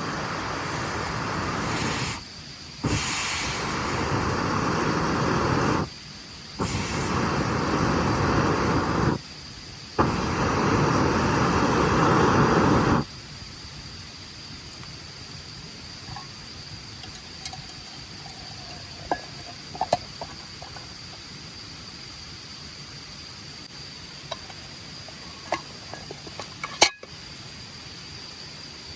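Four bursts of loud rushing noise, each two to three seconds long with short breaks between them, stopping about halfway through. Then a quiet background of steady high insect chirring with a few faint crackles and one sharp click near the end.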